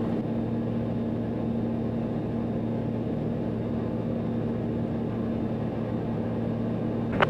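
Cessna 182's piston engine and propeller droning steadily in the cabin, a low even hum with no change in pitch. A brief click comes near the end.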